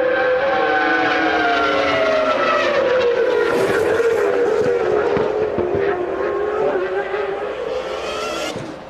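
Formula One car engine running at high revs. Its pitch falls over a couple of seconds about two seconds in, then holds steady, and it fades near the end.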